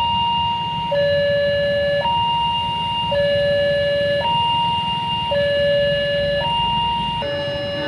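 Railway level-crossing warning alarm sounding its electronic two-tone signal, alternating high and low with each tone about a second long, the warning that a train is approaching. A steady low rumble runs underneath.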